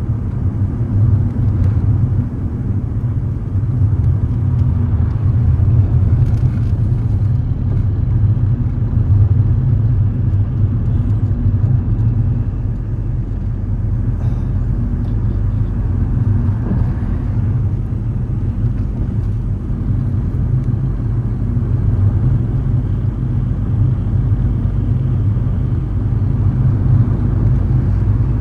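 A car being driven: a steady, low engine and road rumble with no sudden events.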